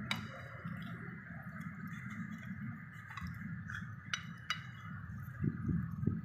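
A few sharp clinks of dishes or glassware, once at the start and twice in quick succession about four seconds in, over a steady restaurant background hum.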